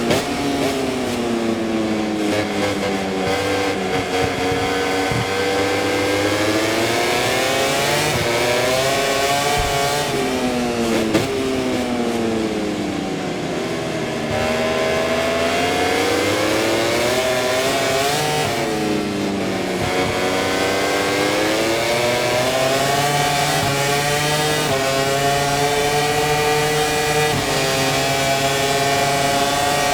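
Aprilia RS-GP MotoGP bike's V4 engine at racing speed, heard from the onboard camera. The revs fall through downshifts into corners and climb through stepped upshifts on the exits, several times over.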